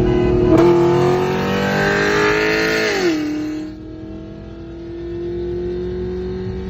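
C6 Corvette V8 with aftermarket headers and exhaust accelerating hard at full throttle: the revs climb, drop sharply at an upshift about three seconds in, then climb again more slowly in the next gear.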